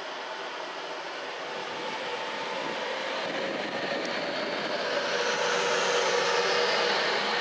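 Virgin Trains Class 390 Pendolino electric train moving past at close range, its rushing wheel and traction noise growing steadily louder, with a faint steady hum underneath.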